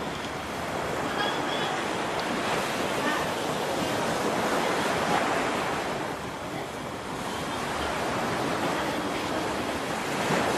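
Waterfall rushing: a steady, dense rush of falling water that swells and eases a little.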